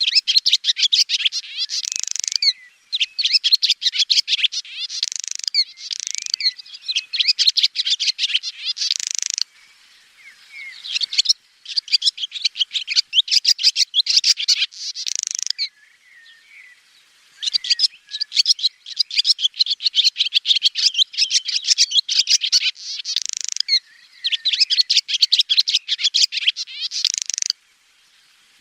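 Swallow twittering: phrases of rapid, high-pitched chirps and trills a few seconds long, broken by short pauses, including one near the end.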